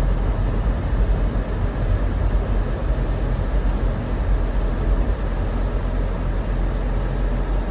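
Steady low rumble of a car driving on a snowy road: engine and tyre noise with no distinct events.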